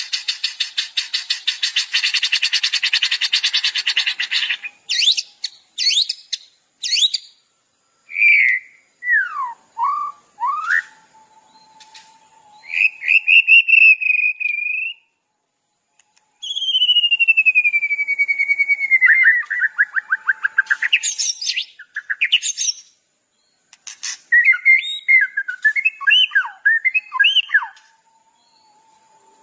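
Songbirds calling: a fast buzzy trill for about the first four seconds, then separate whistled phrases with sliding notes, including a long falling whistle in the middle, and a run of quick warbling notes near the end.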